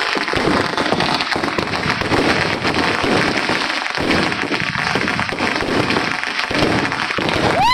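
Many fireworks and firecrackers going off at once: a continuous, dense crackle of overlapping pops and bangs.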